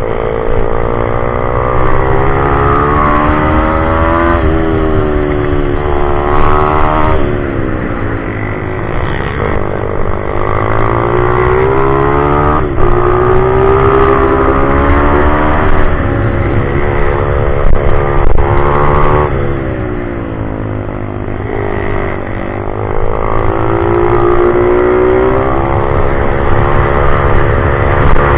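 Pit bike's small single-cylinder four-stroke engine revving hard, its pitch climbing and dropping over and over every few seconds as the bike accelerates, shifts and slows.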